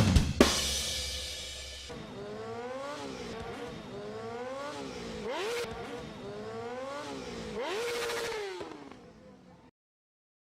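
A motorcycle engine revving again and again, its pitch climbing and dropping every second or so, before cutting off near the end. Loud music with drums and guitar ends about two seconds in.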